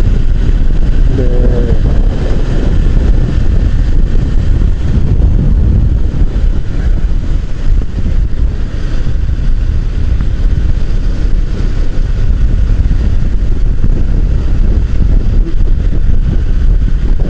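Wind rushing over the microphone of a moving motorcycle, with the motorcycle's engine running steadily under it.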